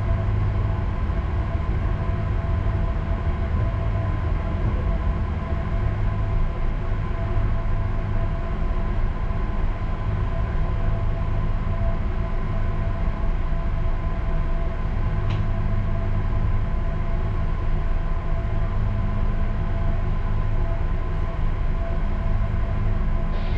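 A ship's engines running steadily at reduced speed as the vessel turns: a continuous deep drone with several steady humming tones over it.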